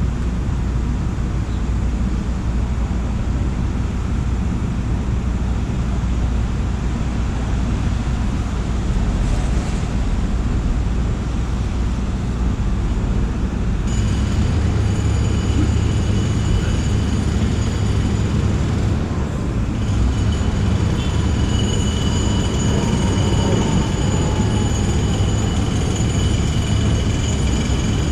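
Subway train running: a steady rumble of the moving car, with a high whine joining about halfway through.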